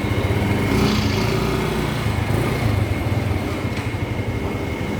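Small motorcycle engine running steadily, with a dense low pulsing and a thin steady high whine.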